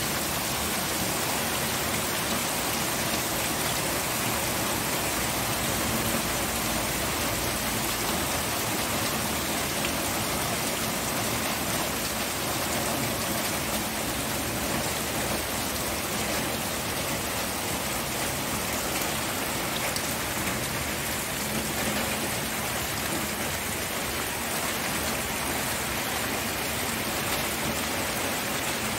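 Steady rain falling, a continuous even hiss with fine patter of drops.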